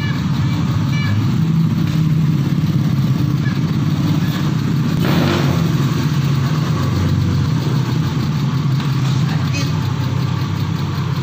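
Engine idling steadily through an aftermarket exhaust (knalpot), a deep, even exhaust note.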